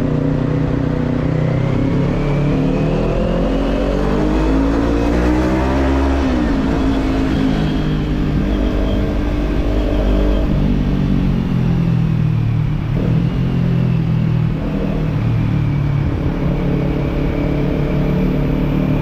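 Kawasaki Z-series parallel-twin motorcycle engine with an aftermarket slip-on exhaust, under way on the road. The revs climb for the first few seconds, drop sharply about six seconds in, then rise and fall again while cruising.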